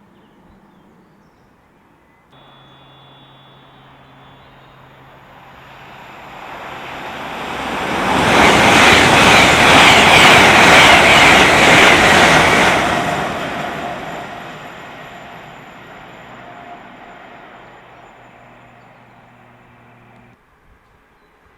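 Passenger train passing at speed on the East Coast Main Line: a rushing rail noise that builds over several seconds, is loud for about five seconds as the train goes by, then fades away.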